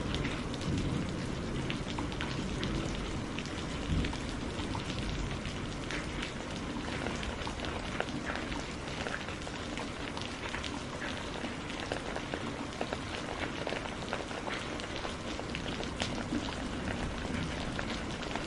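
Steady rainfall: a constant hiss with many individual drops ticking sharply throughout.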